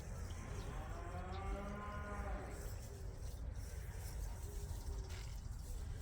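A cow mooing once: one long call, rising and then falling in pitch, lasting about two and a half seconds.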